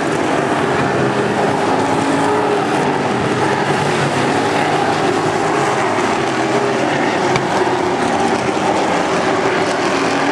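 NASCAR race trucks' V8 engines running at speed on the track: a loud, steady, unbroken drone with several wavering engine tones.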